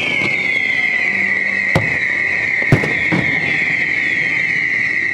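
Fireworks: a long, steady high whistle from a whistling firework climbing, holding one pitch after a short downward slide, with a few sharp bangs about two and three seconds in.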